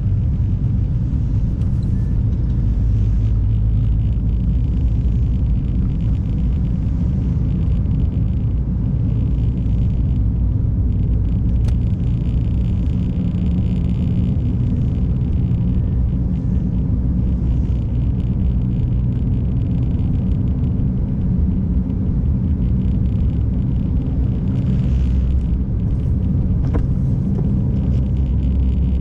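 A car driving on an icy, snow-covered road, heard from a camera inside the car: a steady low rumble of tyre and engine noise.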